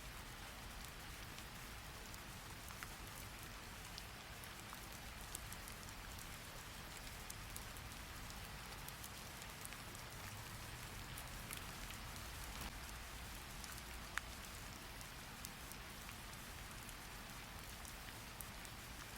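Steady rain falling: a soft, even hiss with scattered faint ticks and one sharper tick about fourteen seconds in.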